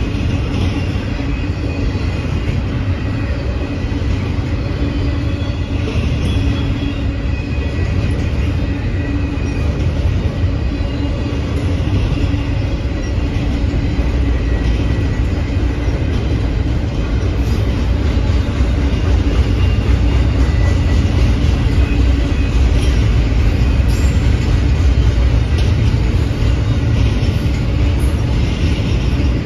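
Double-stack intermodal container train rolling past, its well cars' steel wheels making a steady, deep rumble on the rails.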